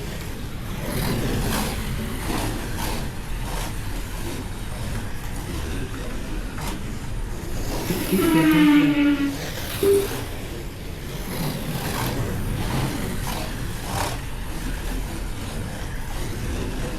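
Slot cars running laps on a racing track: a steady whirr of small electric motors and cars on the track. A short beep sounds around ten seconds in, and a brief pitched call falls in pitch shortly before it.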